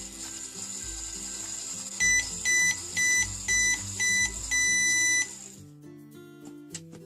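Toy microwave oven beeping: five short electronic beeps about twice a second, then one longer beep, over background music.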